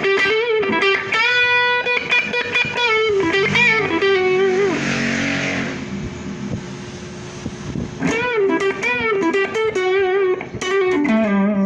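Electric guitar played through a Mosky DTC effects pedal, picking single-note lead phrases with string bends and vibrato on held notes. A brief hissy swell comes mid-way. A second phrase follows and ends on a falling note.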